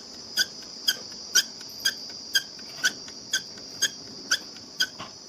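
Epson ink tank printer squeaking while printing: a steady high-pitched squeal with a sharp squeak about twice a second. This 'keer keer' noise is put down mostly to a dirty, dry paper roller, and partly to a gear that needs grease and catches.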